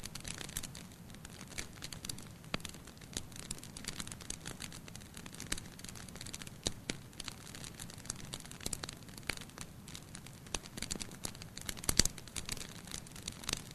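Wood fire crackling in a fireplace: a steady run of irregular snaps and pops over a faint low hiss, with one louder pop near the end.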